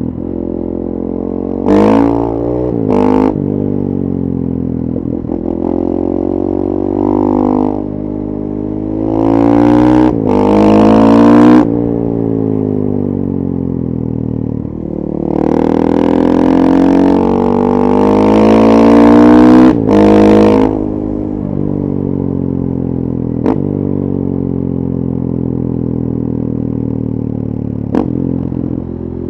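KTM 450 EXC single-cylinder four-stroke engine through a full FMF 4.1 exhaust, ridden: two quick throttle blips about two and three seconds in, hard pulls with the pitch climbing and dropping as it shifts up around ten seconds and again from about fifteen to twenty seconds, then running steadily at low revs. Two sharp clicks come near the end.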